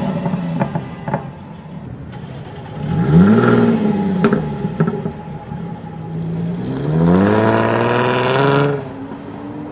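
Jaguar F-Type engine revved twice with the exhaust open, the second rev held longer before it drops back. Sharp exhaust pops and crackles follow as the revs fall.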